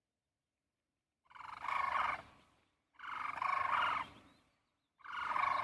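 Sarus cranes calling: three loud pitched calls, each about a second long and trailing off, repeating every second and a half or so, starting about a second in.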